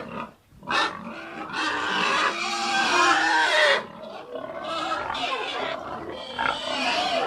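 Pigs squealing loudly: a short sharp squeal about a second in, then a long, harsh squeal with wavering pitch, and more squealing after a brief dip past the middle.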